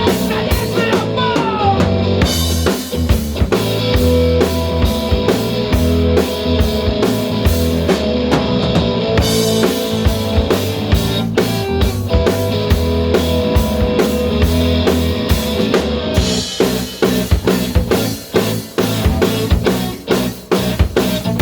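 Rock band playing an instrumental passage: a drum kit keeps a steady beat under guitar and bass, then breaks into busier, irregular drum fills for the last few seconds.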